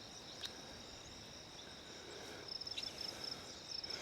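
Insects trilling steadily at a high pitch. About two and a half seconds in, a rapid pulsed chirping joins in, and there is a faint click near the start.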